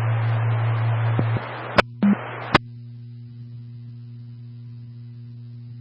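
Two-way radio scanner between transmissions: an open channel's hiss over a strong low hum, then sharp squelch clicks and a short blip as the carrier drops, leaving a faint steady hum with light static.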